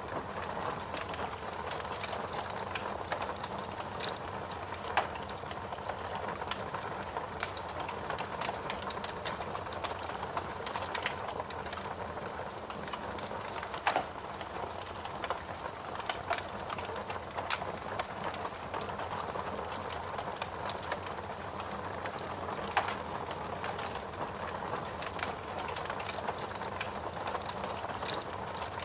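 Wood logs burning in a fireplace, crackling steadily with many small pops and a few louder snaps.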